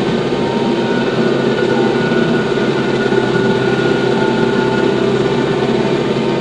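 TYM T574 tractor running steadily: a constant mechanical drone with steady whining tones that hold the same pitch.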